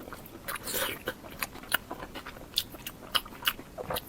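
Close-miked eating sounds: a person biting and chewing food, with irregular wet mouth clicks and smacks.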